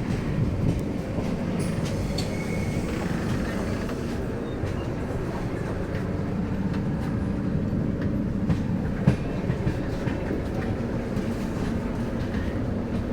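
Steady low rumble of a vehicle in motion, with a couple of sharp knocks about two-thirds of the way through.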